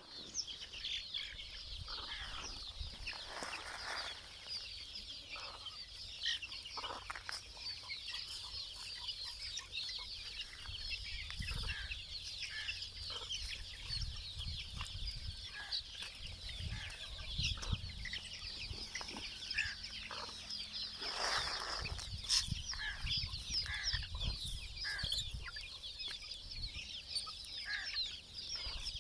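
A flock of free-range chickens clucking, with dense high chirping running throughout and a low rumble through the middle part.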